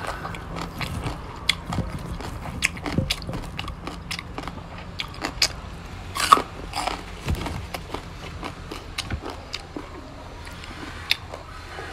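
A mouth chewing and crunching green papaya salad with raw greens. Irregular wet clicks and crunches, with one louder crunch about six seconds in.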